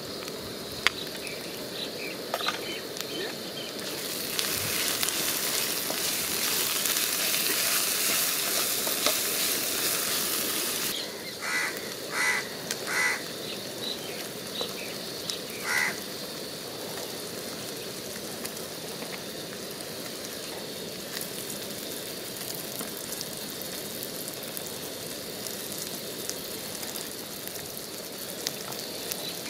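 Onion-and-spice masala with goat kidneys frying in a pan on a gas burner: a steady sizzle, louder and hissier for several seconds in the first half. A few short calls from a bird, like a crow's caw, come in the middle.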